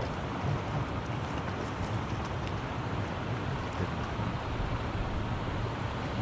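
Steady rush of a mountain stream's flowing water, an even hiss with a low rumble underneath.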